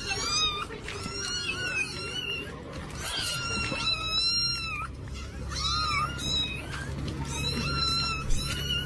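A cat meowing over and over, a string of short, high-pitched meows with a steady low hum beneath.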